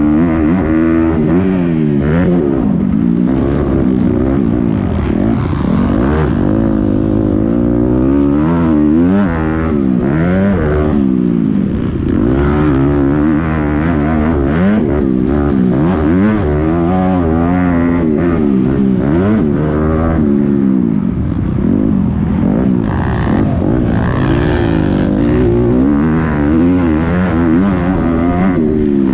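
Several motocross bike engines racing together, their pitch rising and falling over and over as the throttles open and close.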